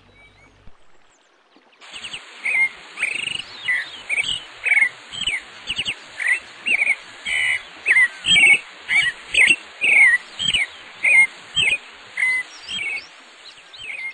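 A bird chirping in a quick series of short calls, about two a second, over a steady high trill of insects. It starts about two seconds in.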